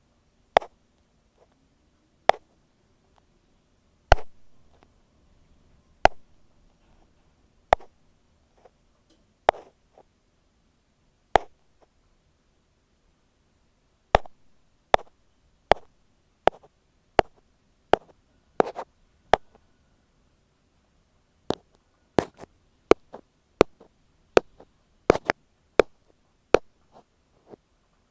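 Ear pick tapping on an earphone microphone: sharp, dry taps close to the mic, spaced nearly two seconds apart at first, then quicker, one to two a second, from about halfway.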